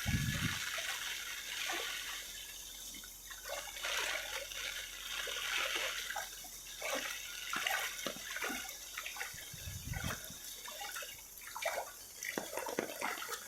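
Heavy rain falling, with water dripping and splashing in many separate drops. There is a brief low rumble about ten seconds in.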